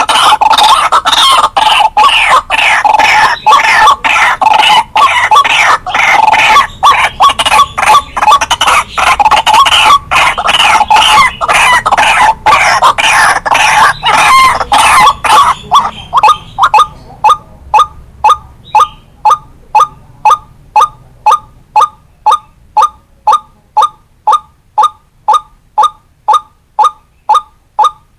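White-breasted waterhen calling: a loud, dense run of harsh overlapping croaking calls for roughly the first half, which then settles into a steady series of short single notes, a little under two a second.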